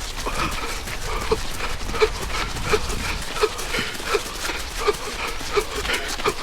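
A runner's breath wheezing hard: a short, high-pitched wheeze on each breath, repeating about every 0.7 seconds over the running footfalls.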